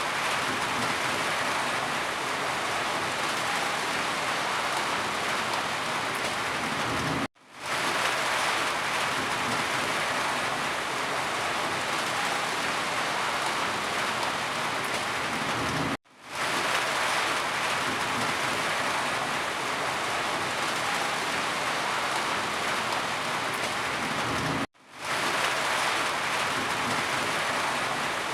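Steady rain falling and pattering on surfaces. It cuts out sharply three times, about every nine seconds, each time fading back in over about a second.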